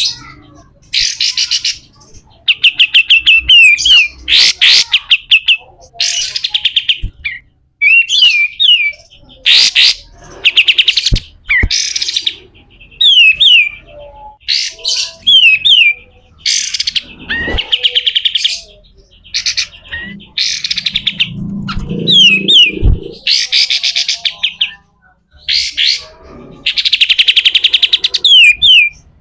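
Kapas tembak, an Indonesian triller songbird, calling over and over in harsh, rasping phrases ('besetan kasar'): fast buzzy trills alternating with short, sharp down-slurred whistled notes, each phrase about a second long with brief pauses between them.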